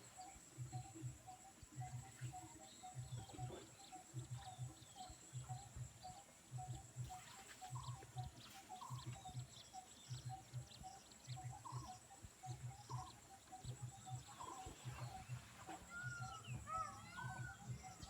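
Animal calls: scattered short chirps that grow busier near the end, over a low pulsing that repeats a few times a second.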